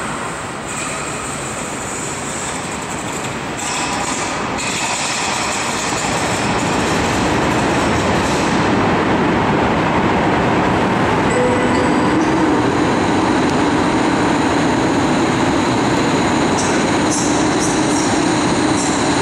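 Passenger train coaches rolling along the station tracks, a steady rail rumble that grows louder through the first half, with short high-pitched wheel squeals near the end.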